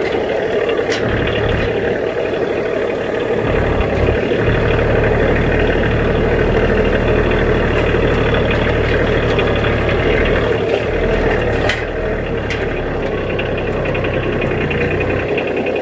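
Kioti DK35 SE compact tractor's diesel engine running steadily, with a few sharp knocks or clicks about a second in and again near the end.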